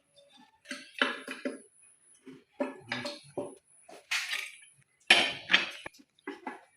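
Metal clinks and taps of a wrench and lever bar on the cylinder head nuts as they are tightened, coming in irregular clusters of short strikes.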